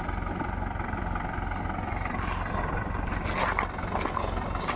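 Mahindra tractor's diesel engine running steadily with an even low beat, working under a heavy load.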